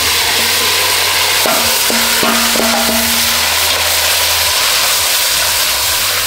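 Seasoned meat and vegetables sizzling as they are tipped into a hot aluminium pot on a gas burner and stirred. A metal ladle knocks and scrapes against the pot a few times between about one and a half and three and a half seconds in.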